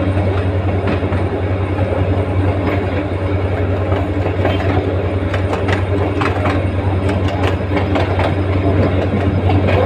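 Passenger train running along the track, heard from alongside a carriage: a steady loud rumble, with sharp clicks and clanks of the wheels over the rails coming thicker from about halfway through.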